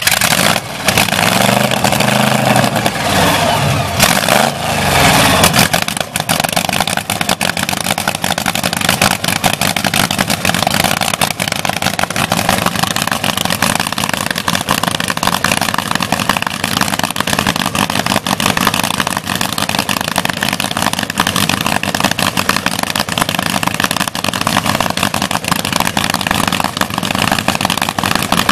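Flathead Cadillac V8 of a land-speed race car catching and revving in a few quick blips over the first several seconds, then settling into steady running.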